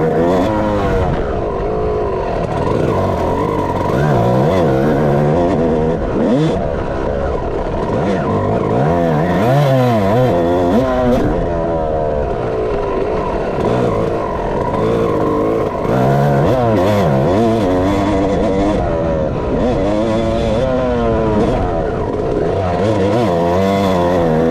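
A dirt bike engine being ridden hard, revving up and easing off over and over, its pitch rising and falling every second or two.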